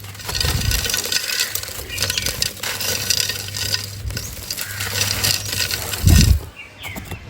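Dry, dusty sand-and-cement texture crumbled by hand into a clay pot: a dense run of crunching, gritty crackles, with one heavy low thud about six seconds in.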